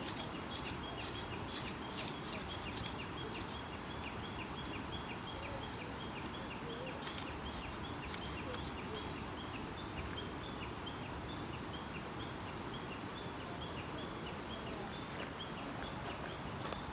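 Outdoor riverside ambience: a steady rushing noise with a short, high, falling chirp repeating about three times a second, and a few sharp clicks in the first few seconds.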